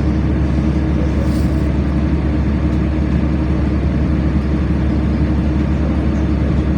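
LiAZ-5292.65 city bus engine running with a steady low drone, heard from inside the passenger cabin.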